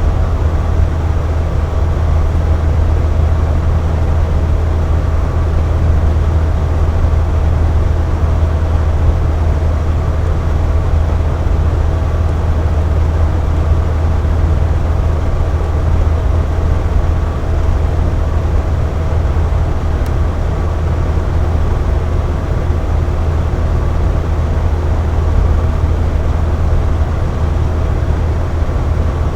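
Box fan running steadily: a constant airy rush over a deep low hum, with a faint steady tone in the upper middle.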